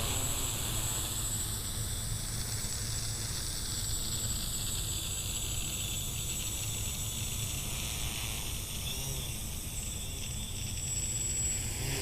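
Xaircraft X650 electric quadcopter's motors and propellers buzzing steadily in flight, with a thin high whine and a sound colour that sweeps slowly up and down as it flies around. A constant low rumble lies underneath.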